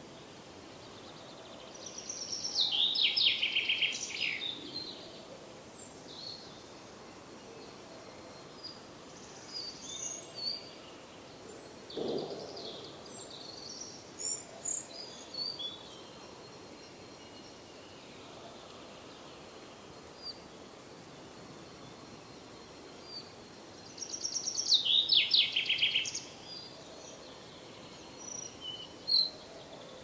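Forest birdsong: a songbird sings a loud trilled phrase that falls in pitch, about two seconds in and again about twenty-four seconds in, with scattered short chirps from other birds between, over a steady background hiss.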